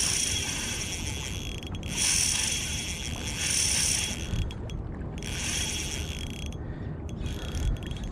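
Drag of a Shimano Stradic Ci4+ 1000 spinning reel buzzing in three bursts of about two seconds each as a hooked fish pulls line off the spool.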